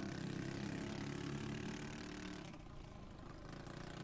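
Modified single-cylinder minibike engine running under race load, easing off about two and a half seconds in and picking back up near the end.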